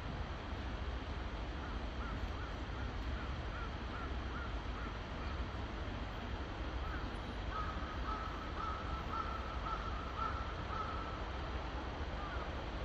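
A crow calling in short repeated caws, about three a second, in two runs, over a steady low background rumble.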